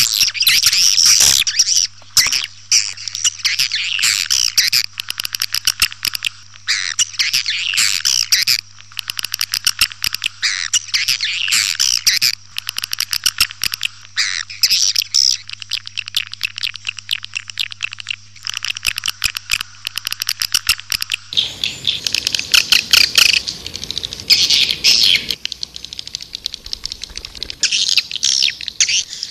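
Swiftlet calling-sound track for luring swiftlets: dense, rapid, high twittering chirps of edible-nest swiftlets. A steady low hum runs under them until about 21 seconds in, where the recording changes to a noisier stretch.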